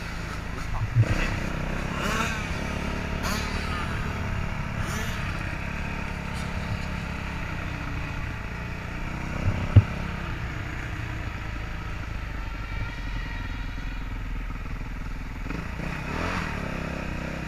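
Motocross dirt bike engines running, pitch rising and falling with the throttle. Two sharp knocks stand out, about a second in and again near the middle.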